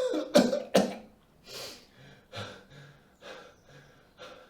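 A man coughing hard twice, then breathing heavily in short voiced gasps, roughly one every second.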